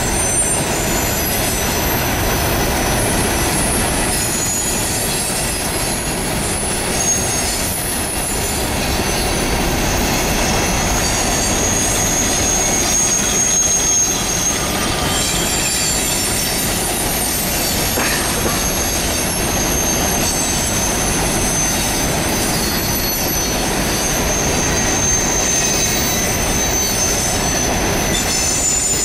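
Empty hopper cars of a freight train rolling past: a steady rumble of wheels on rail, with thin, high-pitched wheel squeals that come and go.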